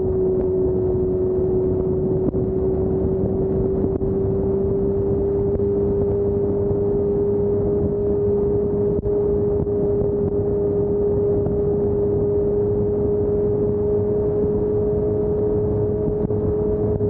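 Motorcycle engine at a steady highway cruise: a constant drone holding nearly one pitch and creeping slightly higher, over a steady rush of noise.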